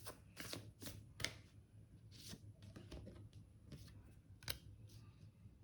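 Tarot cards being handled: a faint series of short papery rustles and flicks at irregular intervals, the sharpest about a second in and again near four and a half seconds.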